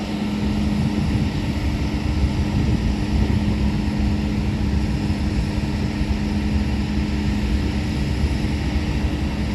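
Freight train of covered hopper cars rolling past, a steady low rumble of wheels on rail, with a steady low hum underneath.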